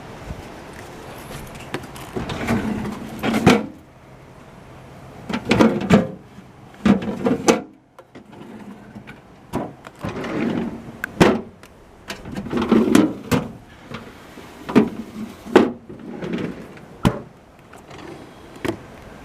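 Doors and drawers of a Mitsubishi MR-E55R-S six-door refrigerator being opened and shut: repeated sliding and swinging sounds, each ending in a sharp knock or click as a door or drawer closes, about a dozen times with a short pause about eight seconds in.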